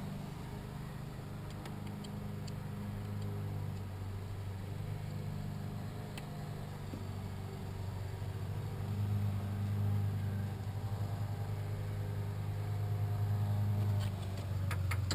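An engine running with a steady low drone that grows a little louder in the second half, with a few light metallic clicks near the end.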